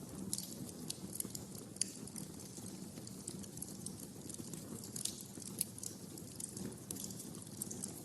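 Wood fire in a fireplace crackling: irregular sharp snaps and pops, a few louder than the rest, over a low steady rumble of the flames.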